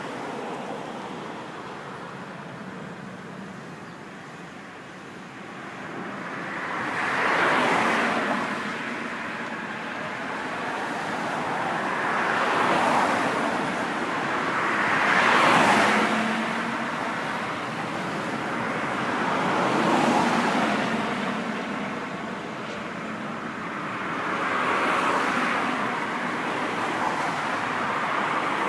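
Road traffic: vehicles pass one after another, about five of them, each a swell of tyre and engine noise that rises and fades over a couple of seconds above a steady traffic hum.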